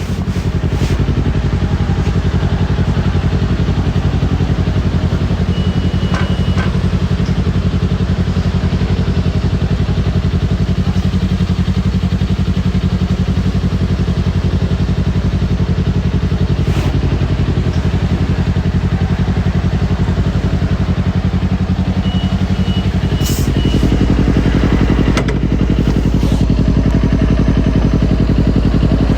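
Kawasaki Ninja parallel-twin motorcycle engine running at a steady, unchanging speed, as at idle. About three-quarters of the way through, its note turns deeper and fuller. A few brief clicks are heard on top.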